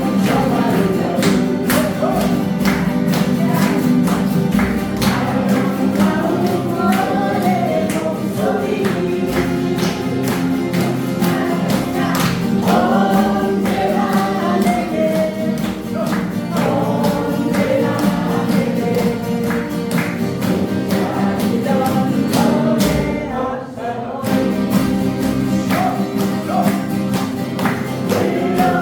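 A group singing together, accompanied by strummed acoustic guitars, with a brief drop in level about three-quarters of the way through.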